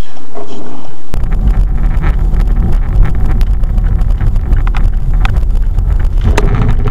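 Heavy wind buffeting on a vehicle-mounted microphone over a low road rumble, starting abruptly about a second in, with a few sharp clicks and knocks scattered through it.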